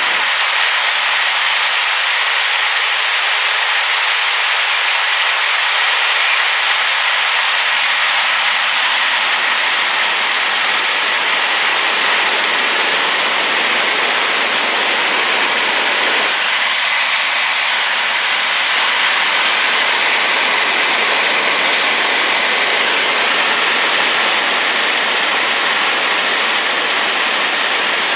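Waterfall swollen by rain, pouring in a loud, steady rush of white noise with no letup.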